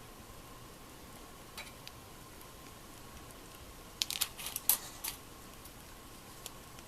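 A few light clicks, then a brief burst of sharp clicking and tapping about four seconds in, over a faint steady hum.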